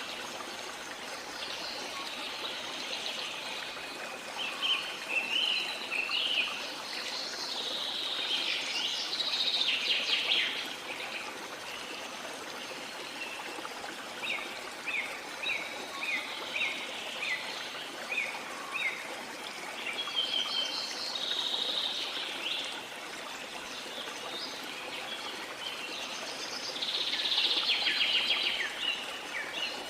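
A waterfall's steady rush under rainforest birdsong: several bouts of bird calls come and go, including a run of short, evenly repeated chirps about halfway through.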